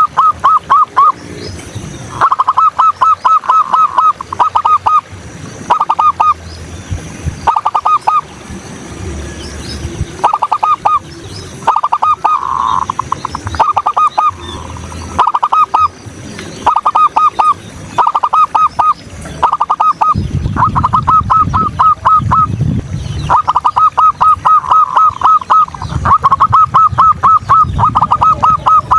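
Zebra dove (perkutut) calling: repeated bursts of rapid, evenly spaced cooing notes, a new burst every second or two, with faint chirps of other small birds behind.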